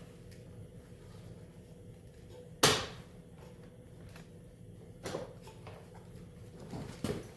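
Hand tools knocking against metal during snowmobile teardown: one sharp clank about two and a half seconds in, a softer knock about five seconds in and a few light clicks near the end, over a low steady hum.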